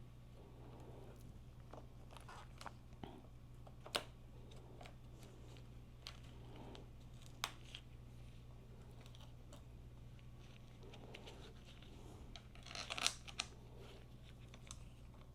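Scattered clicks, knocks and light clatter of motorcycle parts and hand tools being handled during reassembly, with a short burst of clatter near the end, over a steady low hum.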